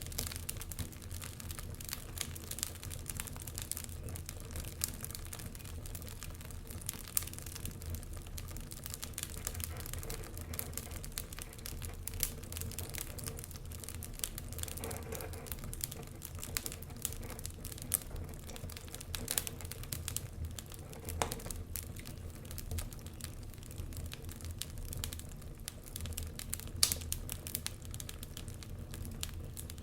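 Wood fire crackling, with dense, irregular small pops and snaps and one louder snap near the end.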